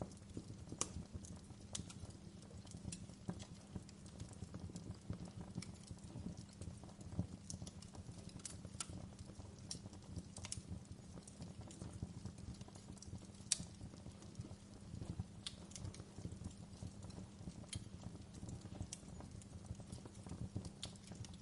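Wood fire crackling: irregular sharp pops and snaps over a low steady rumble, with one louder pop about halfway through.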